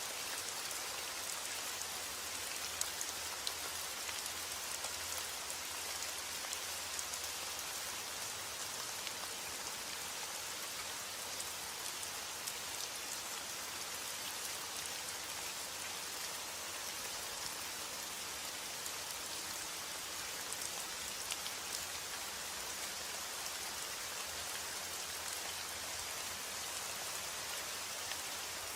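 Steady rain falling, a continuous even hiss with many small drops ticking on a surface.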